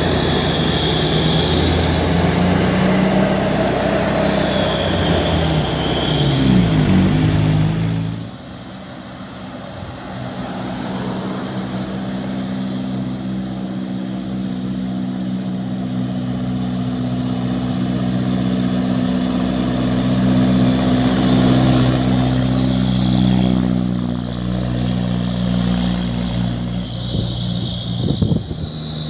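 Heavy truck's diesel engine running under load. About eight seconds in the revs fall away and it quietens, then it settles into a steady pull that grows louder again past the middle.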